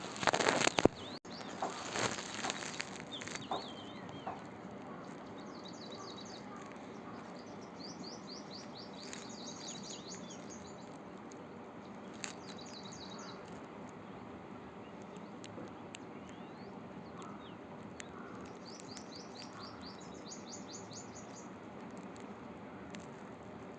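Songbird singing high, rapid trills in short phrases, repeated several times over a steady outdoor hiss. A few loud noisy bursts come in the first few seconds.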